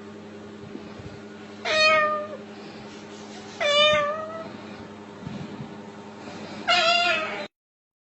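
Three meows about two seconds apart over a steady low hum, the last cut off suddenly near the end.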